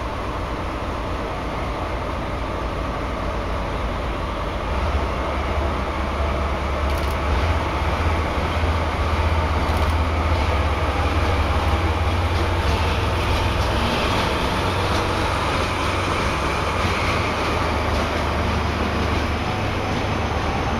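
JNR Class DE10 diesel-hydraulic locomotive running, its deep engine rumble growing louder about five seconds in and holding steady as it pulls away.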